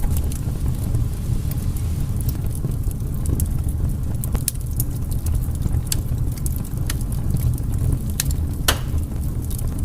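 Firewood burning: irregular sharp crackles and pops over a steady low rumble, with one louder pop near the end.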